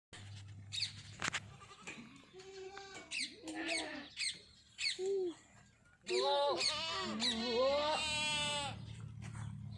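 Sirohi goats bleating: several short bleats in the first five seconds, then one long, loud, wavering bleat from about six seconds in until near the end.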